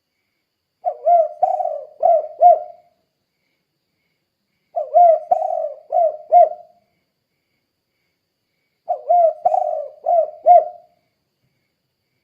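Spotted dove (tekukur) singing its cooing song three times, each phrase a run of about five coos lasting some two seconds, repeated about every four seconds.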